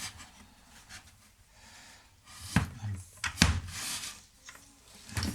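Parts being handled on a workbench: two sharp knocks, about two and a half and three and a half seconds in, with light rubbing and shuffling between long quiet stretches.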